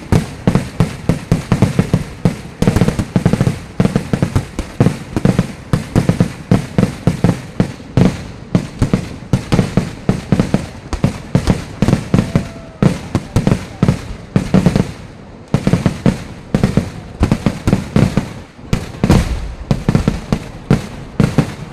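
Fireworks display: an unbroken barrage of explosions, several bangs a second, one after another without a pause.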